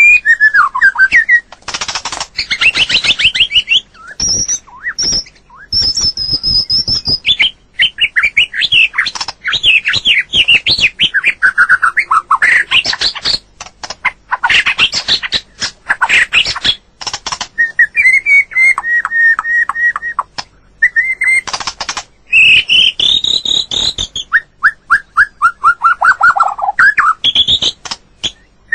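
White-rumped shama singing a loud, varied song of clear whistles, fast falling runs of notes and trills, with sharp clicks between the phrases.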